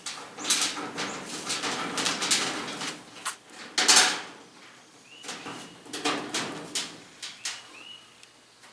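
Hand work on a race car's sheet-metal body: irregular scraping, rustling and light knocks, with a sharper knock about four seconds in and a couple of short high squeaks later on.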